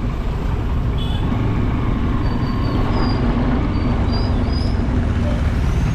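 Steady road and wind noise from a moving ride, a dense low rumble throughout. A few faint short high chirps come through in the middle.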